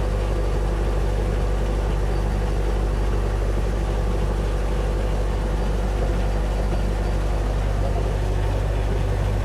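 A sailboat's inboard engine running steadily at a constant speed, with a deep low hum and a steady higher drone above it.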